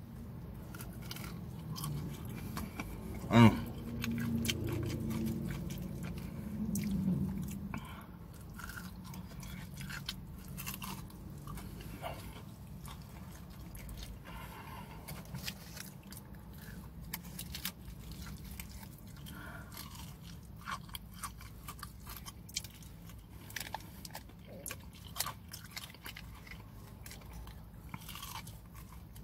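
Close-up chewing and biting of fried chicken, with crunchy bites and many small wet mouth clicks. A brief loud throat sound comes about three and a half seconds in, and a low hum fades out about eight seconds in.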